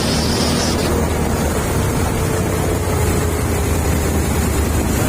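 Truck engine running steadily while the truck drives, with wind rushing over the microphone; a faint engine tone falls slowly in pitch.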